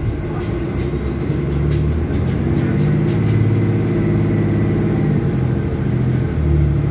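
Heard from inside a moving city bus: the engine and drivetrain drone, low and steady, growing a little louder after the first second and shifting in pitch a few times.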